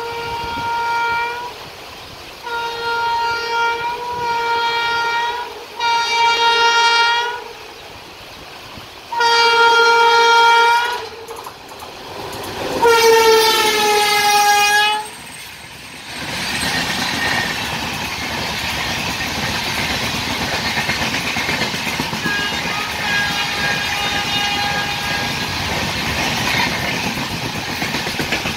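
WAP7 electric locomotive sounding its horn in a series of about six long blasts as it approaches, the last one dropping in pitch as the locomotive passes. Then the steady rumble and wheel clatter of the express's coaches running through the station.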